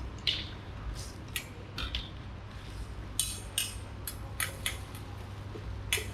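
Metal utensils clinking and scraping against dishes: a dozen or so sharp, irregular clinks over a steady low hum.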